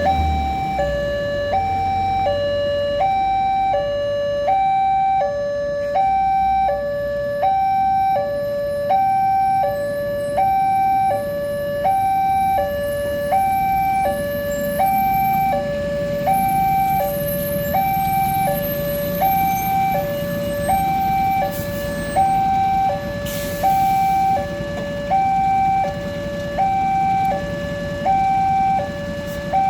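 Railway level crossing warning alarm sounding a two-tone electronic chime, alternating steadily between a higher and a lower note about once a second, which signals that a train is approaching and the gates are closing.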